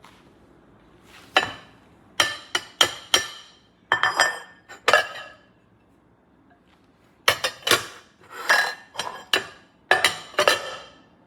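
KooK ceramic pasta bowls clinking, about a dozen ringing knocks in short clusters with pauses between.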